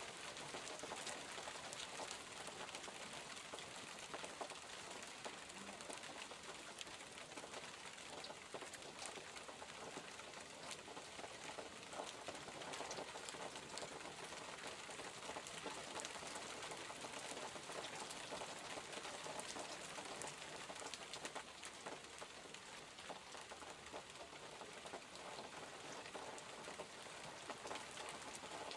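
Steady rainfall, with many small drops pattering on surfaces in an even hiss.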